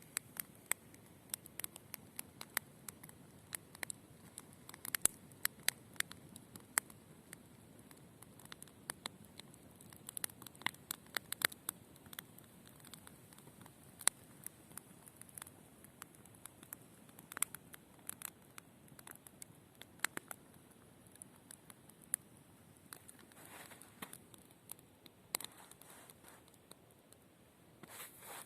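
Small twig campfire crackling, with irregular sharp pops and snaps over a faint hiss, clustered more thickly around the middle.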